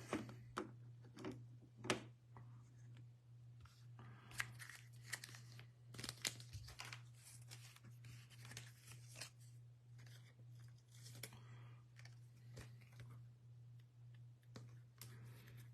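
Faint tearing and crinkling of foil trading-card pack wrappers, with cards being handled in scattered short rustles and clicks over a steady low electrical hum.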